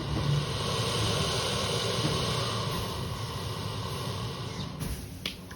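Alligator hissing: one long breathy hiss that slowly fades over about four seconds, followed by a couple of short clicks near the end.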